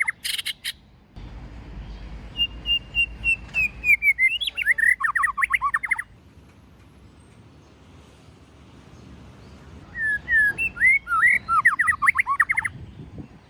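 White-rumped shama singing two phrases. The first opens with a run of short, even, high notes and breaks into a fast, tumbling warble. The second, a few seconds later, is similar.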